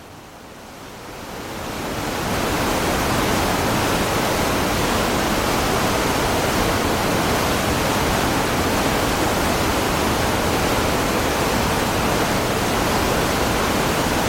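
Steady rushing roar of a waterfall, a dense even hiss of falling water that swells up over the first two seconds and then holds level.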